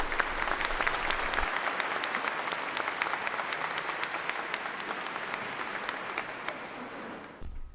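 Audience applauding: many hands clapping together in a dense patter that slowly dies down and stops just before the end.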